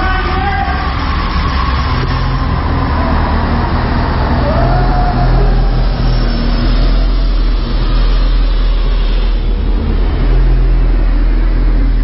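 Honda B20 non-VTEC four-cylinder engine running on a chassis dyno, a loud, steady drone with no clear change in pitch.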